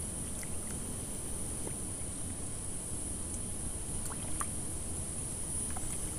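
Strong wind buffeting the microphone: a steady low rumble, with a steady high-pitched hiss above it and a few faint ticks.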